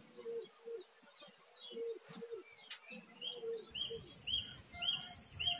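Wild birds calling in the tree canopy at dawn. Short low notes repeat through the first half. From about the middle on, a bird gives a quick run of high chirps, about two a second.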